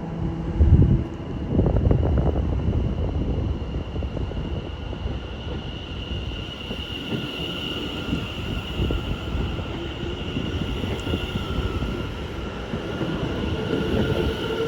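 A Class 720 electric multiple unit pulls out and rolls past its carriages: a dense rumble with repeated knocks of wheels over rail joints, and a steady high electric whine through the middle.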